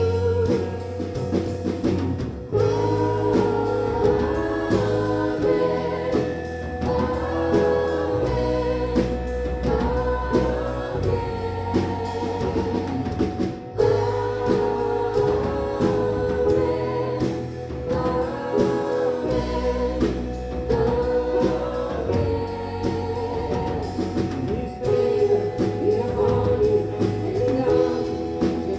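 Worship band and singers performing a gospel-style worship song, several voices holding sustained sung lines over bass and drum kit.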